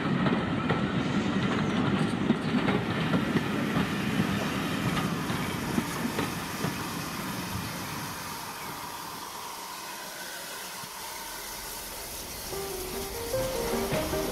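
Train running with wheels clattering over the rail joints, its rumble fading away over about nine seconds. Light plucked-string music begins near the end.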